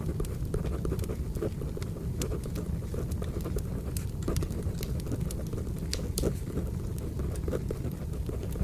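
Firewood burning with frequent sharp crackles and pops over a steady low rumble. Pencil-writing scratches are overlaid on it.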